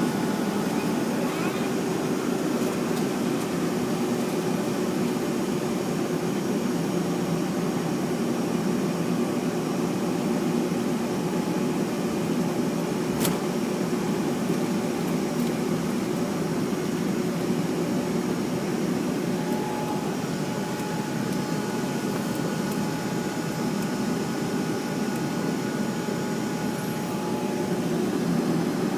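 Steady jet airliner cabin noise with the engines running, a constant hum with a few steady tones on top, heard from inside the cabin. A single sharp click about 13 seconds in.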